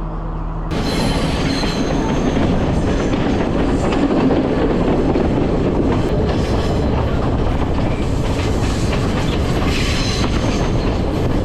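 Passenger train running along the track, wheels clattering over the rails, with a steady rumble and rapid clicks. It starts abruptly about a second in, replacing a steady low hum.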